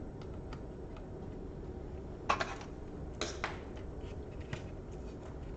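Small clicks and light clatter of laptop parts being handled, with two louder short rattles about two and three seconds in.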